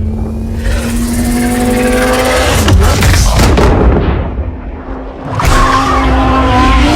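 Car engine running at high revs, with tyre squeal and skidding noise. There are sudden loud bursts around the middle and a wavering squeal in the second half, and the sound cuts abruptly as at edits.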